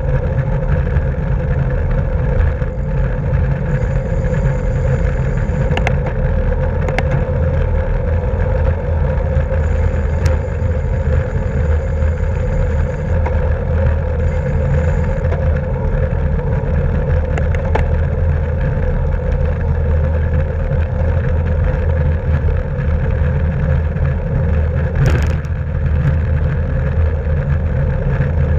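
Steady rush of wind and road noise on a camera carried on a racing bicycle while riding, with a few faint clicks.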